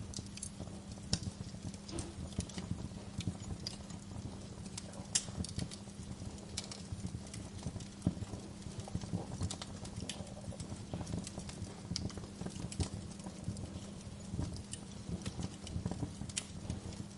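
Wood fire crackling, with sharp pops and snaps at irregular moments over a steady low rumble.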